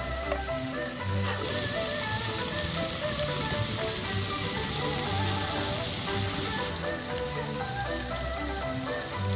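Background music over a loud, hissing stir-fry sizzle in a pan over a wood fire, which cuts in about a second and a half in and stops abruptly about two seconds before the end.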